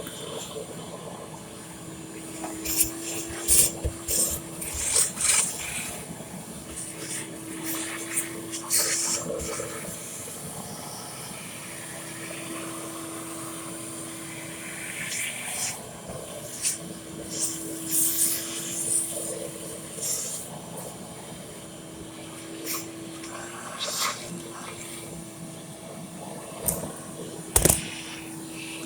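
Liquid running or spraying, over a steady hum, with irregular bursts of hissing noise and a few sharp knocks, the loudest near the end.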